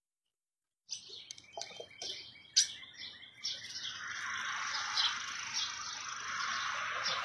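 After about a second of dead silence, small birds chirp and tweet. A sharp click a little after two and a half seconds in is the loudest moment. From about three and a half seconds in, a steady hiss of outdoor background noise runs behind the chirps.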